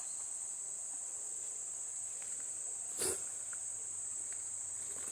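A steady, high-pitched chorus of insects such as crickets, with one short knock about three seconds in.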